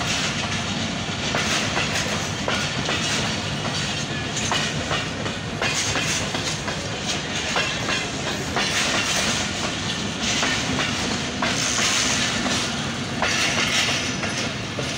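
Passenger coaches of an express train rolling past at speed: a steady rumble and hiss, with the wheels clicking over rail joints in an irregular clickety-clack.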